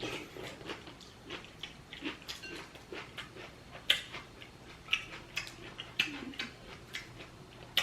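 A person eating saucy seafood close to the microphone: wet chewing and lip smacking, heard as many small irregular clicks and smacks.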